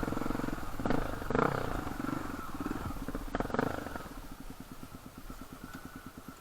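Enduro dirt bike engine running, settling to a slow, even idle about four seconds in. A few sharp knocks and clatters come before it settles.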